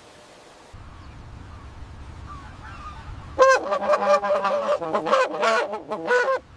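An animal's honking calls: a quick run of loud, pitched honks lasting about three seconds, starting about halfway through.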